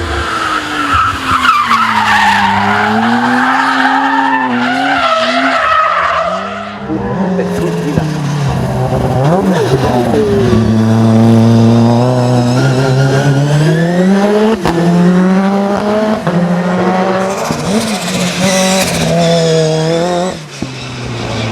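Race car engine at full throttle, repeatedly climbing in pitch and dropping sharply at gear changes, with tyres squealing through corners near the start and again near the end.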